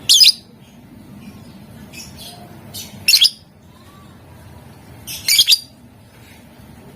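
Lovebird giving short, shrill, screechy calls: three loud ones, at the start, about three seconds in and a doubled one a little after five seconds, with fainter chirps between them.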